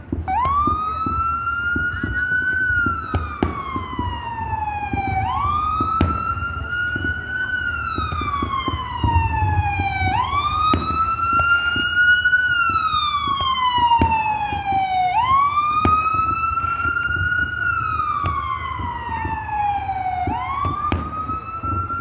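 A siren wailing, its pitch rising and falling in a steady cycle about every five seconds. Scattered short pops and a low rumble sit underneath.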